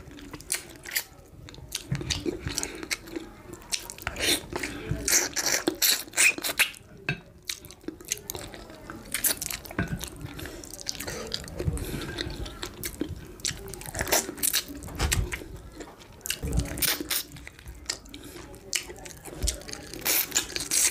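Close-miked eating sounds: chewing on a mouthful of amala with ewedu and gbegiri soup, with many irregular short mouth clicks.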